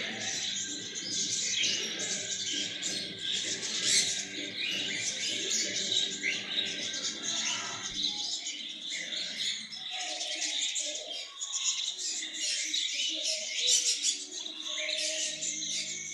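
Many small birds chirping and chattering at once, a dense, continuous stream of high, quick chirps.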